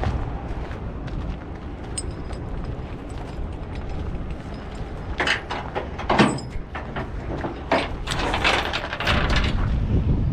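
Steel load chain clanking and rattling in a few short bursts as it is handled on the flatbed, over a steady low rumble.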